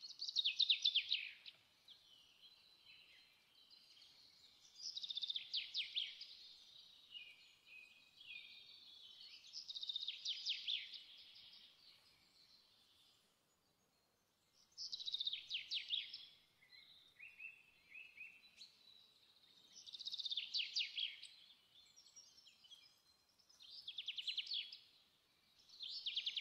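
A songbird singing short, rapid trilled phrases, repeated about every four to five seconds, with softer chirps in between.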